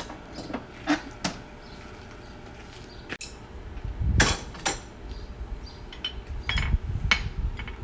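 Irregular light metallic clinks and knocks of steel farrier's tools and a horseshoe being handled at the anvil, the loudest a pair of knocks about halfway through.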